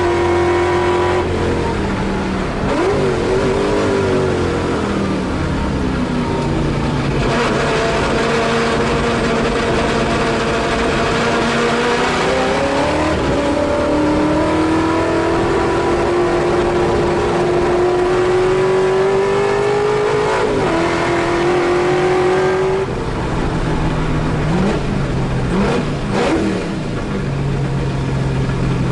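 In-car sound of a Holden Torana A9X race car's V8 at racing speed. The engine pitch drops at a gear change near the start, climbs slowly through a long pull down a straight, and drops again about two-thirds in. It ends with a few quick throttle blips on downshifts before settling lower.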